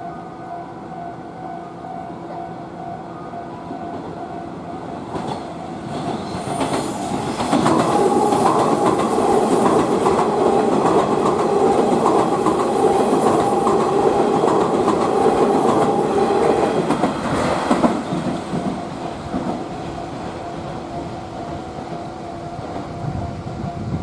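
Train passing through a railway level crossing, its wheels clattering over the rail joints. It grows loud about six seconds in, stays loud for about ten seconds, then fades away. A steady crossing warning bell rings throughout.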